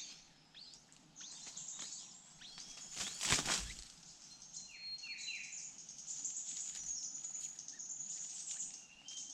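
High-pitched bird chirps and calls: many quick falling notes, with thin whistled notes held in the second half. A brief loud rushing noise comes about three seconds in.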